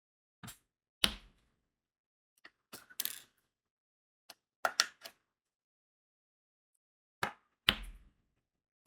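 Diamond painting pen setting crystal rhinestones onto the adhesive canvas: a dozen or so sharp clicks and taps at irregular spacing, some in quick pairs, with two louder taps that carry a low knock, about a second in and near the end.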